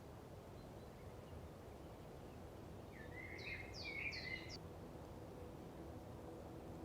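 Quiet background with a faint steady low hum; a small bird chirps a short run of quick notes about halfway through.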